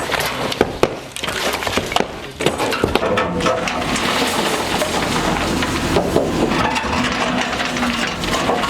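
Demolition of a structure with wood breaking: sharp cracks and knocks for the first couple of seconds, then a continuous crunching, splintering clatter of breaking timber and debris.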